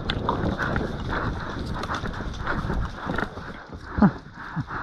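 Irregular footsteps and rustling gear of a person moving on foot across an outdoor field, with a short low falling sound about four seconds in.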